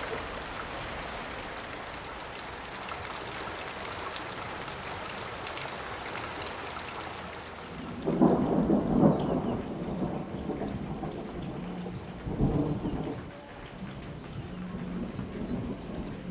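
Steady rain falling, with thunder rumbling in about halfway through: a loud peal, then a second one a few seconds later, fading into a low rumble under the rain.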